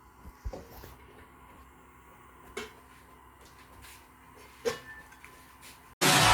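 Quiet room sound with a few soft knocks, about two seconds apart, like things being handled or a cupboard closing; loud electronic dance music cuts in suddenly near the end.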